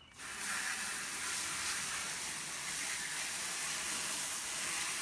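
Water hose spray nozzle hissing steadily; it starts suddenly and runs at an even strength.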